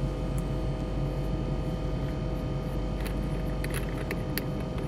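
A steady low hum inside a car cabin, with a few short sharp clicks in the last second and a half as the shifter knob is worked off.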